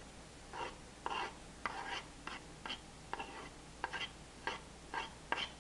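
A utensil scraping in about a dozen short, irregular strokes as chopped onions and sweet peppers are moved into a pot.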